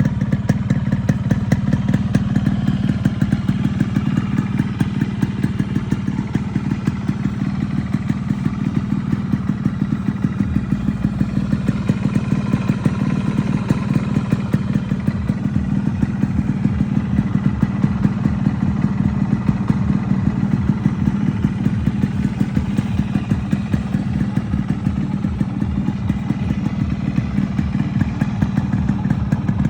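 Yamaha RX100's single-cylinder two-stroke engine running steadily, a low note with a rapid, even exhaust pulse and no clear revving.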